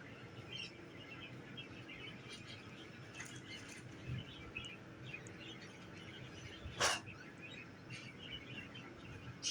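Caged pet-store birds chirping, many small chirps throughout, with one louder, sharp call about two-thirds of the way through.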